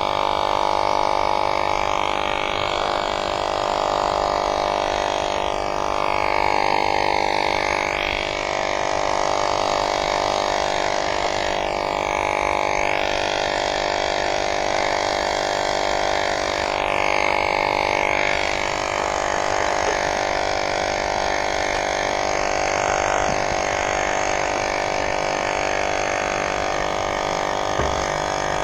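Small electric tire inflator running steadily with a constant buzzing drone, inflating an e-bike's rear tire, which is slow to fill.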